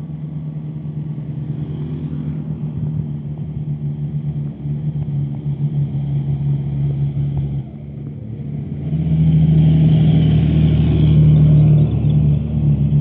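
Heavy truck's diesel engine pulling under load up a steep grade, a steady low engine note; it dips for a moment about eight seconds in, then comes back louder.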